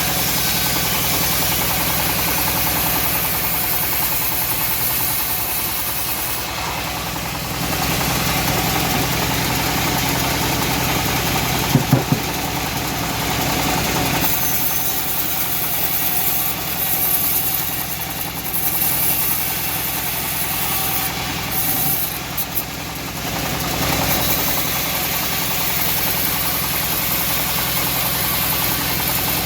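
Engine of a homemade bandsaw mill running steadily while the band blade saws through teak, with a high hiss that shifts in strength as the cut goes on. A sharp double knock about twelve seconds in.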